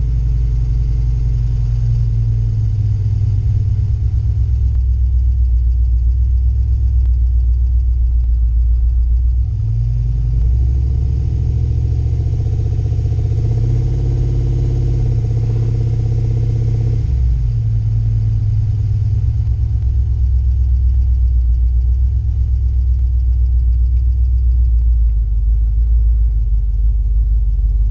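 Turbocharged truck engine running while driving, a steady low drone. About ten seconds in it pulls harder, louder and a little higher in pitch, then eases back down around seventeen seconds.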